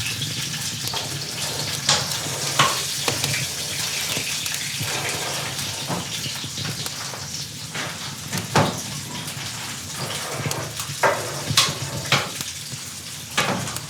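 Food sizzling in a pan on a wood stove, a steady hiss broken by scattered sharp clicks and knocks, a few of them louder, about two and a half, eight and a half and eleven to thirteen seconds in.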